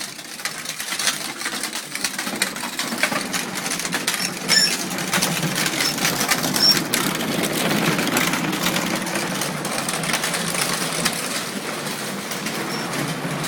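Battery-powered ride-on toy tractor driving fast: its electric motor and gearbox whir steadily while the plastic wheels clatter and rattle over bumpy ground.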